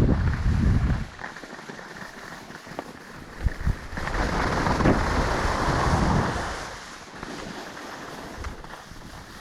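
Wind buffeting the microphone, heavy in the first second. A couple of short knocks follow, then a hiss that swells and fades for about two seconds in the middle.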